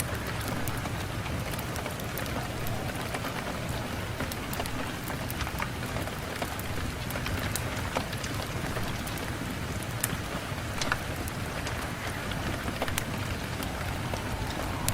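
Steady rain on a window: an even hiss with many scattered sharp ticks.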